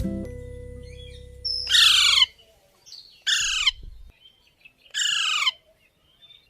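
Parrot squawking three times, evenly spaced about a second and a half apart; each harsh call slides down in pitch.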